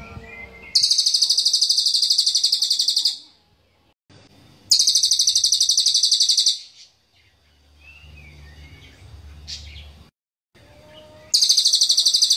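Cililin singing three long, very rapid high-pitched trills, each lasting about two seconds, with faint chirps in between. This is the sharp, almost gapless song that keepers use to train other songbirds.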